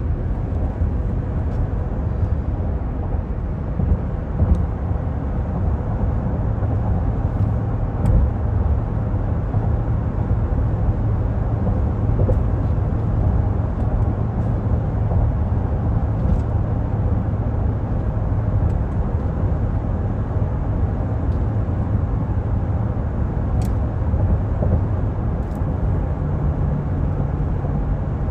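Steady low road and tyre rumble with a constant hum from the 6.2-litre V8, heard inside the cabin of a 2024 Cadillac Escalade cruising, with a couple of faint ticks.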